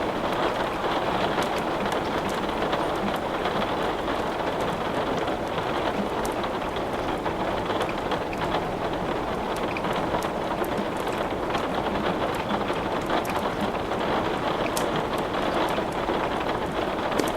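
Steady rain falling, an even hiss with no let-up, with scattered faint sharp crackles of wood burning in a fireplace.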